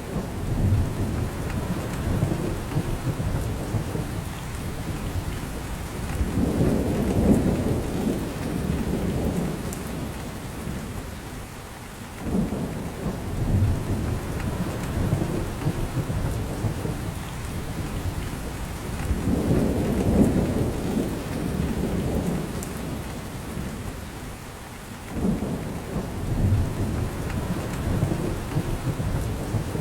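Steady rain falling on a spruce forest, with deep rumbling that swells and fades several times over it. The rumbles follow a pattern that repeats about every thirteen seconds.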